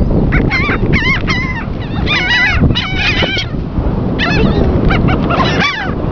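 Laughing gulls calling in short bursts of high, wavering, yelping notes, about six bunches of calls over a steady low rushing noise.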